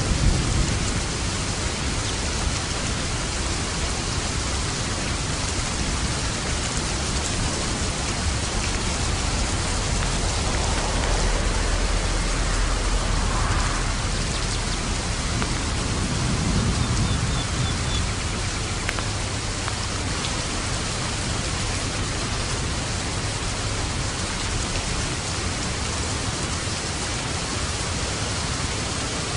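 Steady rain of a thunderstorm, an even hiss throughout, with low rolls of distant thunder swelling up twice near the middle.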